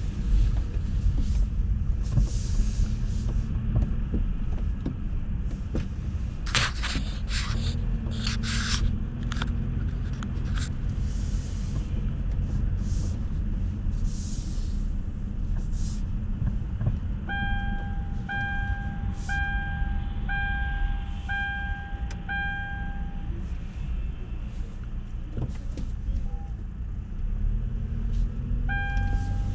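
AVW car wash tunnel equipment running: a steady low rumble with bursts of water spray hissing, thickest in the first third. From a little past halfway an electronic beep sounds about once a second, stops for a few seconds, then starts again near the end.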